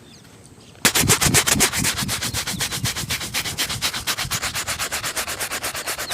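A shoe being shined with fast, even back-and-forth rubbing strokes, about eight a second, starting just under a second in.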